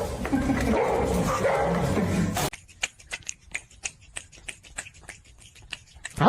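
A dog making noises for about two and a half seconds. Then the sound drops away to a run of light, irregular clicks and taps.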